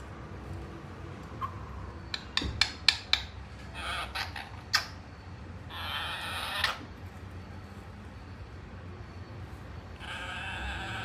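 Pet parrot giving several short, raspy calls a few seconds apart. A quick run of sharp clicks about two seconds in is the loudest sound.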